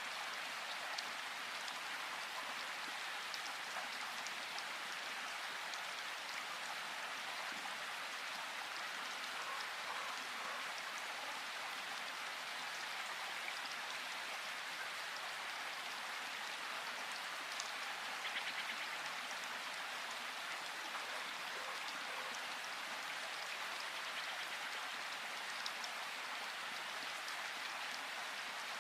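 Steady rain falling in a forest, an even hiss with scattered drops ticking on leaves and surfaces, and a short flurry of drops about eighteen seconds in.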